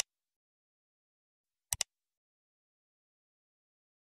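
Short double clicks in otherwise dead silence: one pair right at the start and another about two seconds in.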